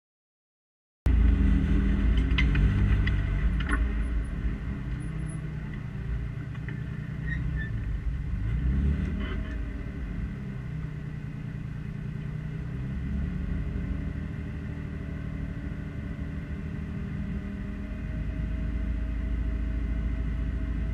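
Alfa Romeo 156 rally car's engine idling, heard from inside the cabin, starting abruptly about a second in. The engine speed briefly dips and rises again about eight seconds in.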